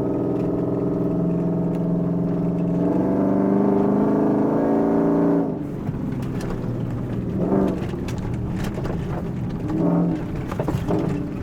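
Pickup truck engine pulling under throttle, its note rising for a few seconds before the throttle is lifted about halfway through. After that there is a rough rumble of the truck running over the trail, with a few brief swells of engine sound.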